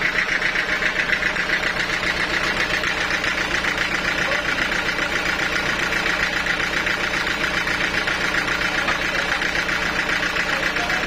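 Sawmill machinery running steadily, a constant mechanical hum with a fast, even pulsing.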